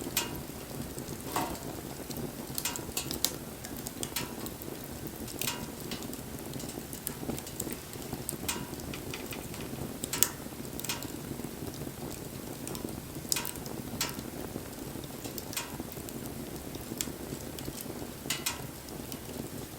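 Wood fire crackling: sharp, irregular pops and snaps over a steady low rush of burning flame.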